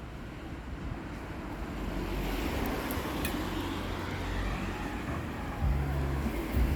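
A motor vehicle passing: a rushing road noise that swells and fades over a few seconds, followed by a steady low engine hum near the end.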